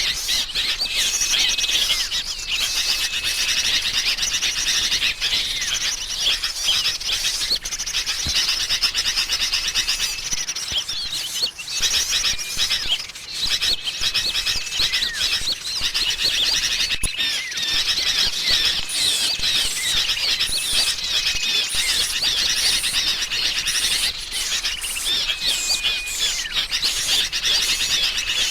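Bird-lure recording of noisy, agitated sooty-headed bulbul (kutilang) chatter layered with small songbirds such as prinias: a dense, unbroken tangle of chirps, trills and quick whistles, with short steady whistle notes recurring every few seconds.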